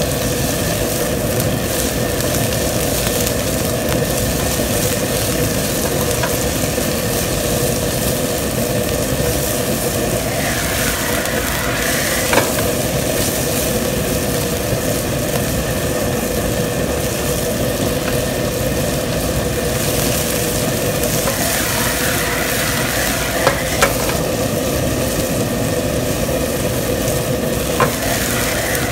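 Sliced chicken and onion sizzling in oil in a nonstick frying pan as a spatula stirs them, with a few sharp knocks of the spatula on the pan. A steady hum runs underneath.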